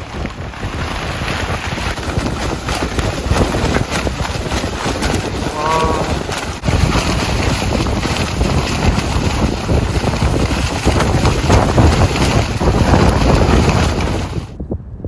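Gale-force wind gusting hard and buffeting the microphone, with a brief pitched sound about six seconds in; the roar cuts off abruptly just before the end.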